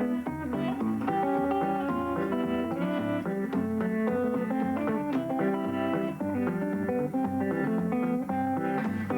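Solo guitar played in the Muhlenberg County thumbpicking style, a regular thumbed bass line under picked melody notes.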